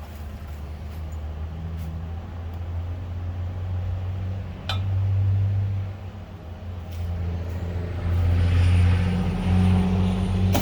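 Homemade 1/8-scale RC excavator running with a steady low hum that swells and eases as it works. There is a sharp click about five seconds in.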